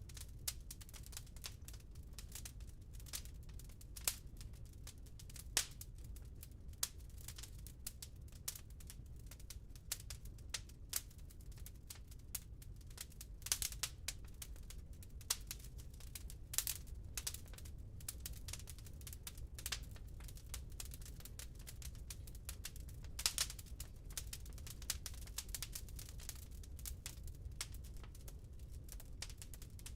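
Burning wood crackling in a fireplace: irregular sharp snaps and pops, a few louder than the rest, over a steady low rumble.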